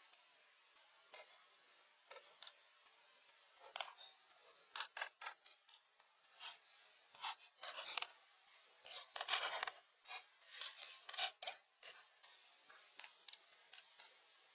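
A series of short, irregular scraping and rubbing strokes, sparse at first, coming thick and fast in the middle, then thinning out again.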